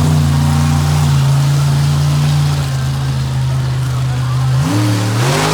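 Monster truck engine held at high revs, then the revs drop and climb again near the end.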